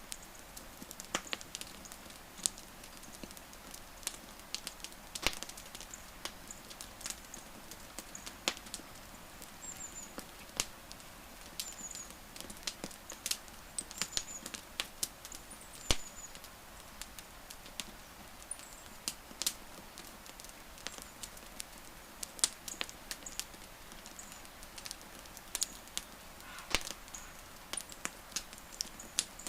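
Wood campfire crackling: irregular sharp pops and snaps of burning wood over a soft steady hiss, with a few faint high chirps in the middle.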